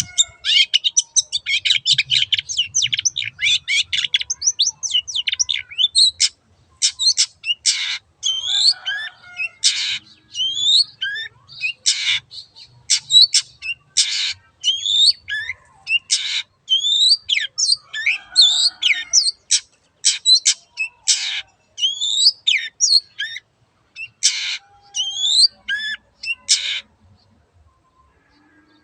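Long-tailed shrike (cendet) singing: a fast run of chattering notes for the first several seconds, then harsh rasping calls alternating with short rising whistles, repeated about every two seconds, stopping shortly before the end.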